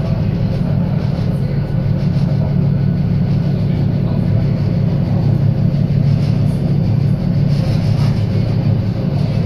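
Tram running on its rails, a steady low rumble.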